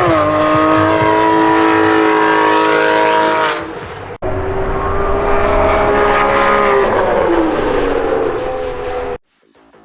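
Race car engines running hard on a circuit, heard in two shots joined by a sudden cut about four seconds in. The engine note drops in pitch at the start and holds steady, then falls again about seven seconds in. It stops abruptly near the end.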